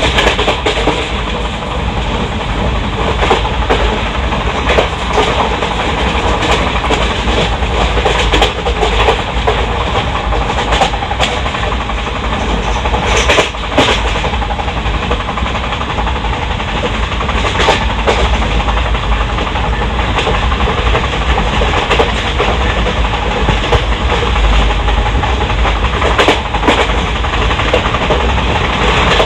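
Wheels of an Indian Railways ICF passenger coach running at speed on the rails, heard from inside: a steady rumble with irregular clicks and clanks from the wheels crossing rail joints, and a few louder clanks.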